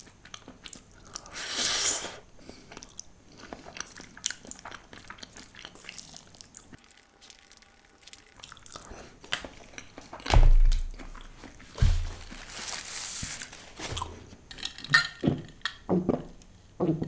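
Close-miked eating: chopstick mouthfuls of noodles being chewed, with a couple of airy slurps, about two seconds in and again about thirteen seconds in. Two dull thumps, about ten and twelve seconds in, are the loudest sounds.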